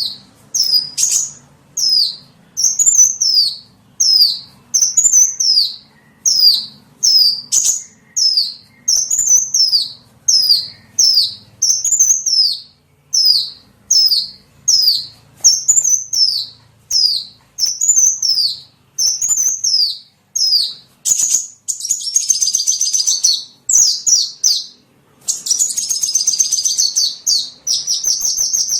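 Small-bird lure call: a high, sharp chirp repeated evenly, roughly one or two a second. In the last third it breaks into faster twittering and a continuous high chatter.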